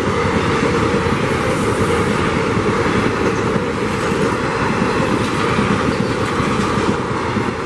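Passenger train coaches passing close by at speed: a steady, loud rush of wheels on the rails and moving air.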